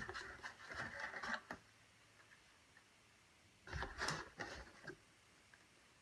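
Rustling and crinkling of packaging and sheets being handled, in two short spells: one in about the first second and a half, another around four seconds in.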